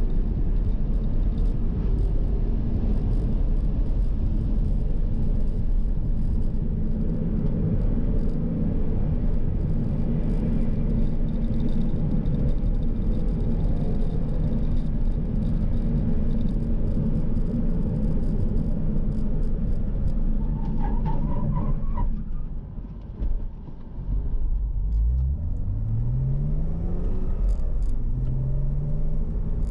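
Porsche Cayman R's flat-six engine and road noise heard from inside the cabin at steady speed. About three-quarters of the way through it goes quieter as the car slows, then rises in pitch twice as the car accelerates through the gears.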